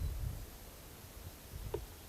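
Small birds chirping faintly, one short chirp standing out near the end, with a few low thuds in the first half second.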